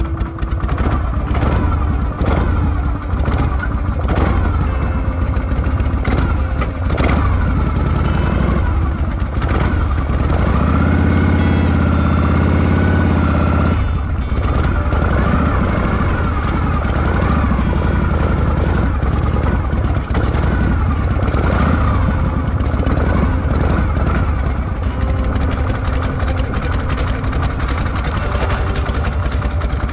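Harley-Davidson Shovelhead V-twin motorcycle engine running, its note rising and falling with the throttle.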